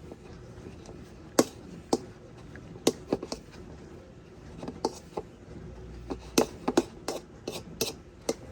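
Pie crust dough being mixed after a little cold water was added: irregular sharp clicks and taps of the mixing, a few at a time with short gaps between.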